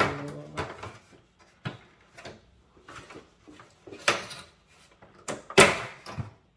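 Knocks, clicks and clatter of a desktop PC case's panels and parts being handled and pulled apart, with the loudest knocks about four and five and a half seconds in.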